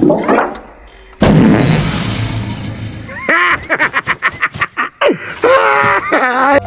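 Animated film sound effects: a sudden loud crash or blast about a second in that slowly dies away. It is followed by a rapid run of clattering impacts mixed with squealing, bending tones, like a race car wreck.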